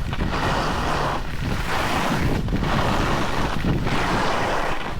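Wind buffeting the microphone while edges scrape over packed snow, swelling and fading about four times as the slope is descended in turns.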